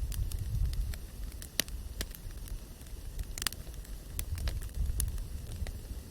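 Wood campfire crackling: irregular sharp pops and snaps, a quick cluster of them about halfway through, over a steady low rumble.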